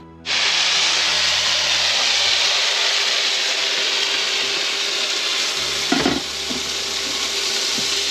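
Sliced sausages, rice and peas sizzling loudly in a fry pan on an induction cooker as they are stirred, starting suddenly. A utensil knocks against the pan about six seconds in.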